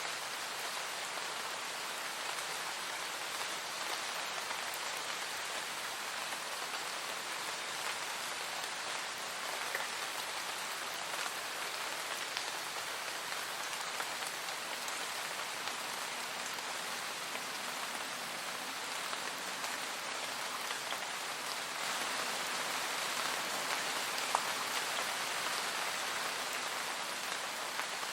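Steady rain falling on a surface, a dense even hiss with scattered individual drops; it grows a little louder about three quarters of the way through, with one sharper drop tick.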